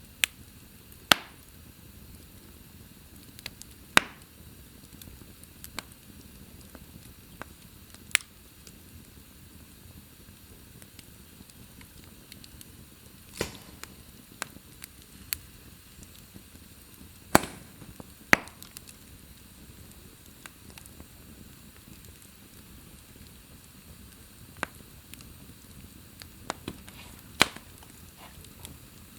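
Wood fire crackling in a fireplace: a low steady hiss broken by scattered sharp pops, about six loud ones several seconds apart and many fainter ticks between them.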